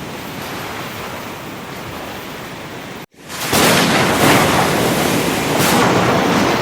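Ocean surf: a steady wash of waves that cuts out abruptly for a moment about three seconds in, then comes back louder with waves breaking and washing up the shore.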